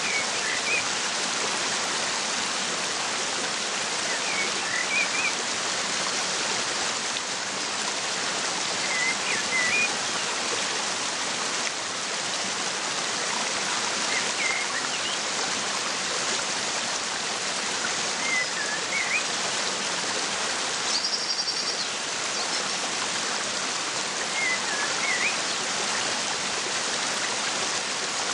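A waterfall's steady noise of falling water, with a small bird giving a short chirp about every four seconds. Once, past the middle, a brief higher trilled call.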